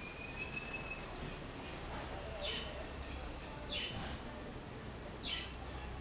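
Small bird calling: three short, sharp calls sweeping steeply downward, about a second and a half apart, after a thin held whistle at the start. Steady background hiss and hum underneath.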